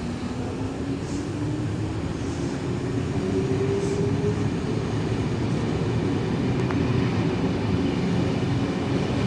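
Sydney Trains S-set double-deck electric train pulling away from the platform, its motor whine rising in pitch over the first four seconds, then running on as a steady rumble.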